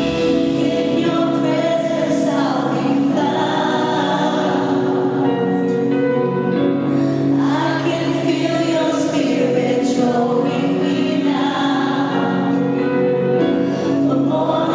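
Live worship music: a band playing while many voices sing together.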